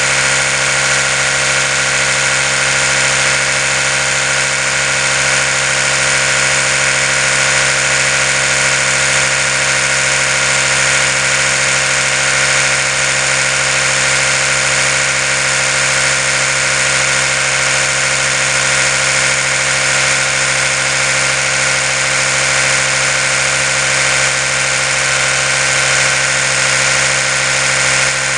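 Oral-B electric toothbrush running continuously: a steady motor hum with many overtones that does not change in pitch or level.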